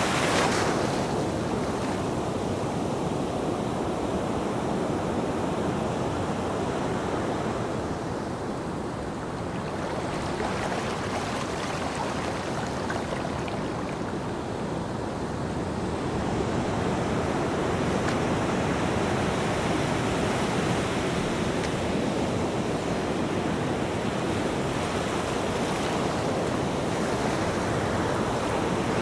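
Ocean waves washing onto a beach in a continuous surf, swelling and ebbing slowly, easing off twice before building again in the second half.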